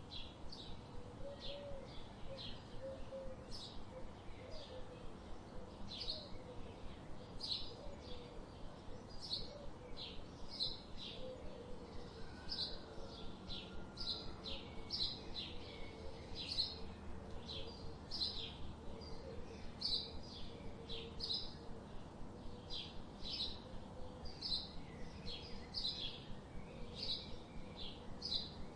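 Small birds chirping, short high chirps repeating two or three times a second, over a faint steady background hum.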